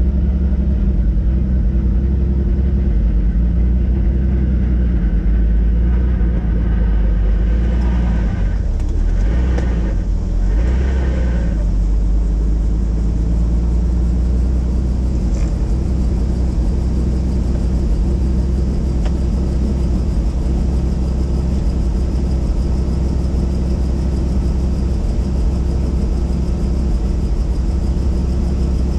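Helicopter's engine and rotor running steadily, a loud deep drone, with a few seconds of extra noise laid over it about eight seconds in.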